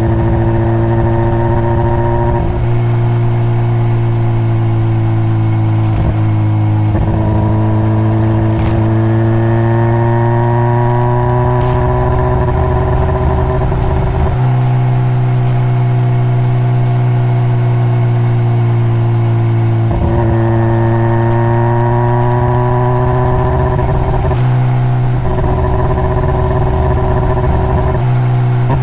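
Honda CBR600RR inline-four running through its stock exhaust under way, engine pitch climbing slowly and then stepping as it changes gear several times.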